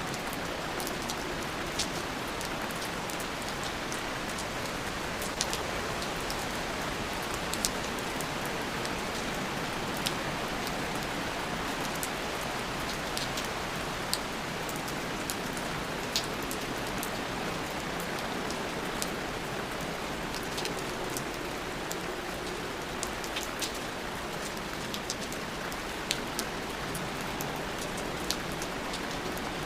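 Steady rain, a constant hiss with scattered sharp drop ticks throughout.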